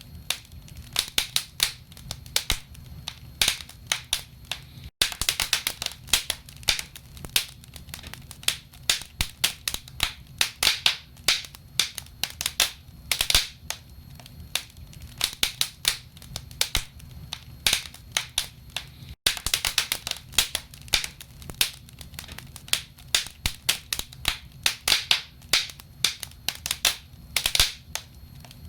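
Wood fire burning in a fireplace, logs crackling with frequent sharp, irregular pops and snaps over a low steady rumble.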